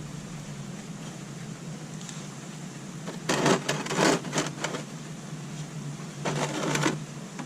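Two bursts of rapid clicking, about three seconds in and again near the end, from a socket wrench loosening the oil drain plug on a Vespa GTS 300 scooter. A low steady hum runs underneath.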